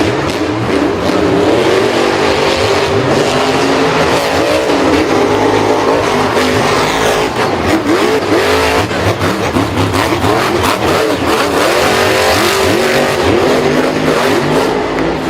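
Engines revving up and down in overlapping glides, like a car race, with tyre squeal.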